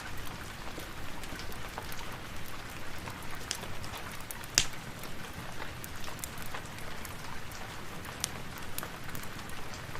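Steady rain with many small sharp clicks scattered through it, and one louder pop about halfway through.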